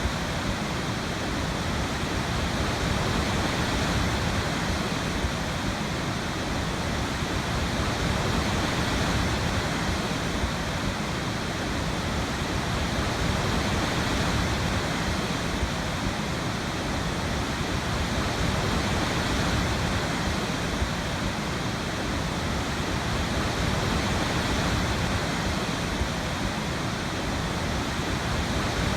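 Waterfall: a steady, dense rush of falling water that does not let up.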